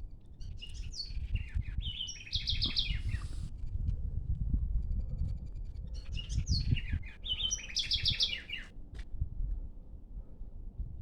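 A songbird singing the same short phrase twice, about six seconds apart, each a few falling notes followed by a quick run of repeated notes, over a gusty low rumble.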